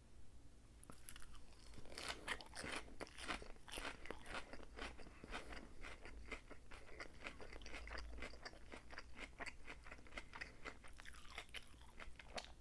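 Close-miked chewing of a mouthful of crisp lettuce salad: many quick, irregular wet crunches that die away about eleven seconds in.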